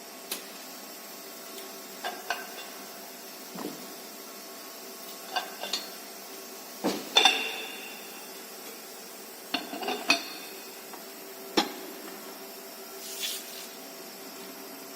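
Metal parts and hand tools clinking and knocking together at irregular intervals, some strikes ringing briefly, during work changing a machine's die. A steady faint hum runs underneath.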